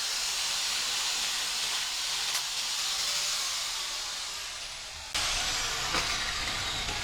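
Steady rushing hiss of compressed air, easing slightly, that cuts off suddenly about five seconds in, giving way to a lower rumbling noise.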